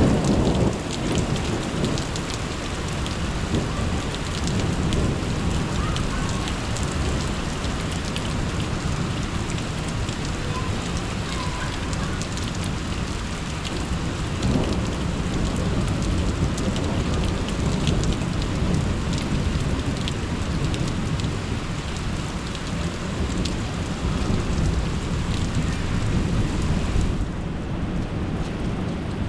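Steady heavy rain with rumbling thunder, the thunder swelling in the first second and again around the middle. Raindrops patter on a surface throughout, and the hiss fades near the end.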